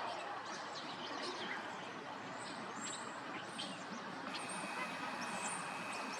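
Steady outdoor background hiss with faint, scattered high chirps of small birds; a faint steady high tone joins a little past halfway.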